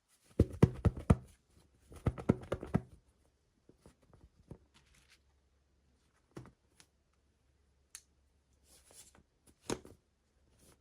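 Hands handling small toy packaging: two quick runs of sharp crinkling clicks in the first three seconds, then scattered single clicks and soft rustles.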